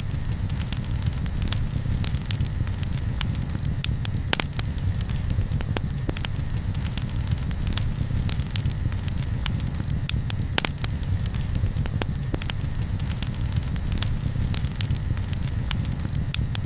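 Campfire crackling: irregular sharp pops and snaps over a steady low rumble of burning. A faint short high chirp repeats about every two-thirds of a second behind it.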